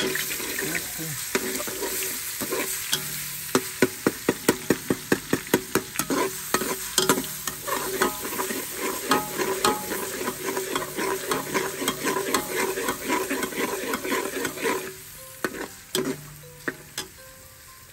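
Food frying in oil in an aluminium pressure cooker, stirred with a perforated metal spoon that scrapes and knocks against the pot. For several seconds the knocks come quickly, about four a second. The sizzling quietens near the end.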